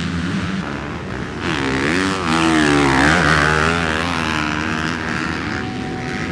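Several motocross bikes racing, their engines revving up and down over one another, with one bike's engine rising loudest about two to three seconds in.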